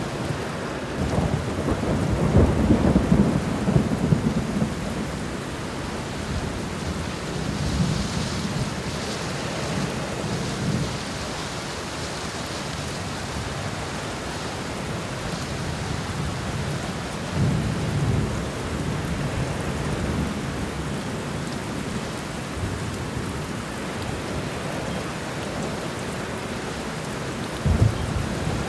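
Thunderstorm: steady rain with low rolling thunder. The thunder rumbles for a few seconds from about a second in, again briefly around the middle, and once more near the end.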